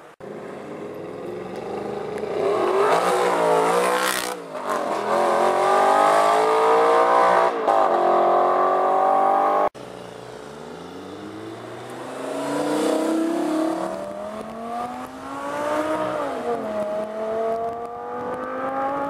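Supercar engines accelerating hard through the gears. The first climbs in pitch and drops at a gear change about four seconds in, then revs higher again. A sudden cut brings in a second car revving up, with another shift near the end.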